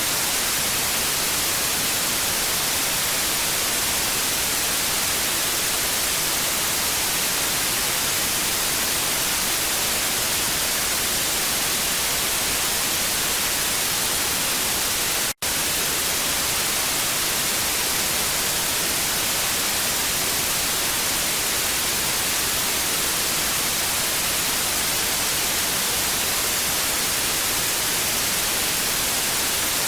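TV static: a steady, even hiss weighted toward the high end. It drops out for an instant about halfway through.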